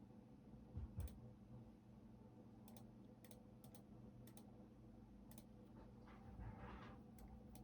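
Faint, sparse computer keyboard typing: about a dozen separate keystroke clicks at irregular spacing, with a soft low thump about a second in and a brief rustle near the end.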